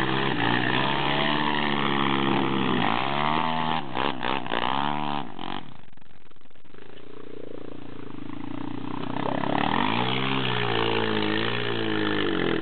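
Dirt bike engine revving up and down. There are quick throttle blips about four to five seconds in, then a lower, quieter stretch, then rising and falling revs again near the end.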